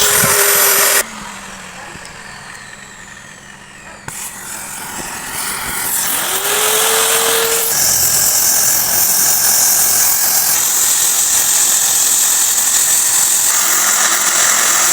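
Angle grinder cutting off about a second in and winding down, then spinning up again about six seconds in and grinding steel with a loud, steady high hiss.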